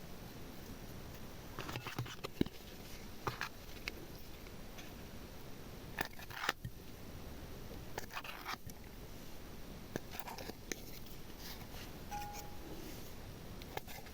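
Irregular light clicks, taps and short scrapes of small objects being handled and set down, with a brief squeak about twelve seconds in.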